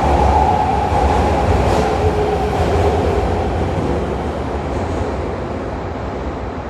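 Electric train running at a station platform: a steady rumbling rush with a humming tone through it, slowly getting quieter over the last few seconds.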